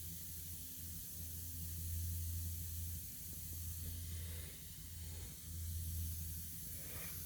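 Low steady hum with a faint hiss as a pressurized pre-oiler pushes oil into the engine. The hum swells and eases a few times, with no sharp leak sounds.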